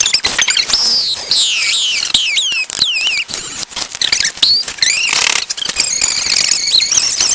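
High-pitched, chipmunk-like squealing made with voices, as a deliberately annoying noise: quick falling swoops repeated again and again, with clicks and crackle throughout.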